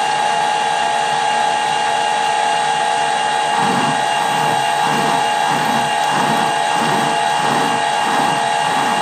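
Metal lathe running under power on a screw-cutting pass, an internal thread being cut, with a steady whine from its motor and gearing. A few seconds in, a regular pulsing joins, about three every two seconds.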